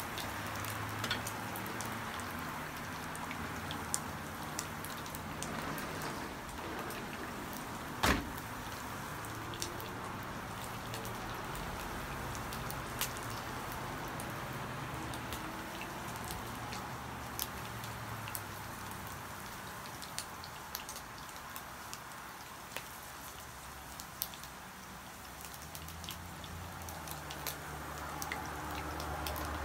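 Slices of Vietnamese pâté frying in oil in a wok, browning: a steady sizzle with frequent small pops and crackles, and one louder click about eight seconds in.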